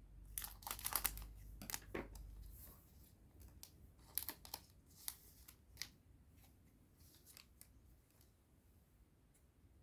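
A trading-card booster pack being opened and handled: a quick run of crinkling and snipping crackles from the foil wrapper in the first two seconds, then a few scattered clicks and taps from handling the cards, dying away near the end.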